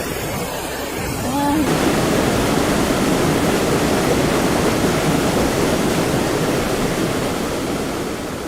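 Storm noise: an even rushing of typhoon wind and water that gets louder about two seconds in and fades gently near the end.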